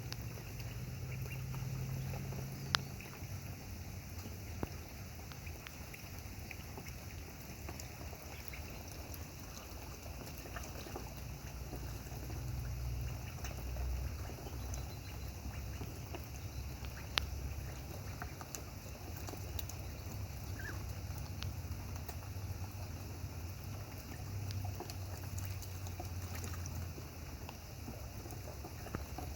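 Steady rain falling, an even hiss with a low rumble beneath it and a few sharp drip or splash ticks.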